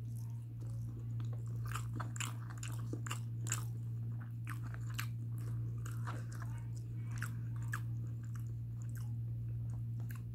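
A person chewing mouthfuls of mutton biryani eaten by hand, with many small wet clicks of the mouth, over a steady low hum.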